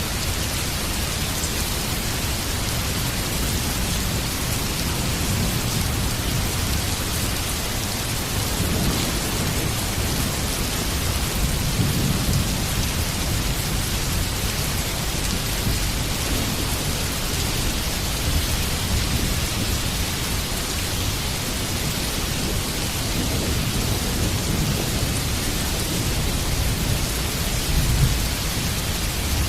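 Heavy rain pouring steadily, with low rolling thunder that swells about a third of the way in and again near the end.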